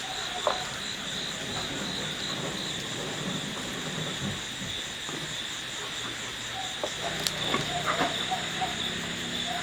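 Insects chirping in a steady pulsing chorus, about three or four beats a second, with a few scattered knocks and faint short repeated calls near the end.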